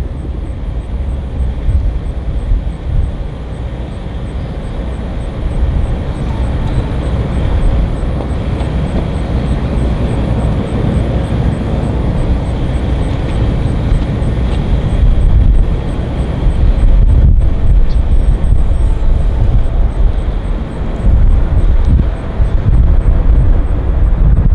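Jet airliner engines: a loud, continuous rumble that grows louder in the second half.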